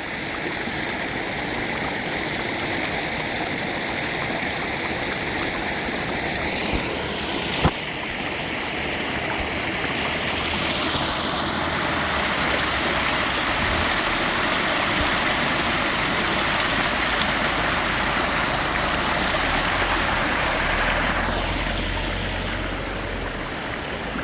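Shallow stream water running steadily over rocks, a continuous rushing hiss, with one sharp click about a third of the way in.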